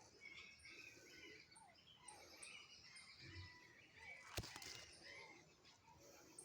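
Near silence with faint, scattered bird chirps and one sharp click about four and a half seconds in.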